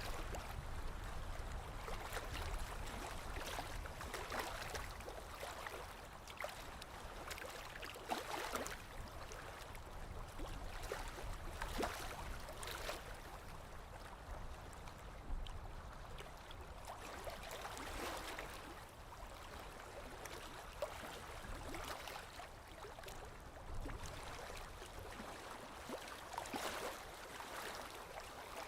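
Small waves lapping against a lakeshore: a steady wash of water with soft splashes swelling up every few seconds.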